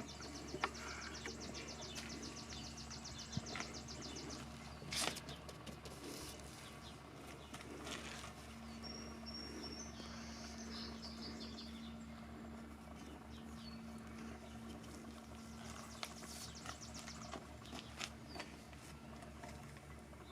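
Faint outdoor background with birds chirping and a rapid high trill, over a steady low hum and a few scattered clicks.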